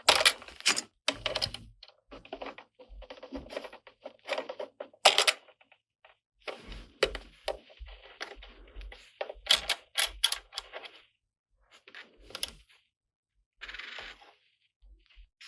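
Small plastic toy parts and packaging being handled: a string of sharp, irregular clicks and taps, with stretches of rustling between them.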